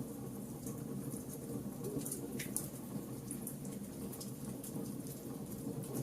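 Wood fire burning: a steady low rush of flames with irregular small crackles and pops from the burning wood, one sharper crack about two and a half seconds in.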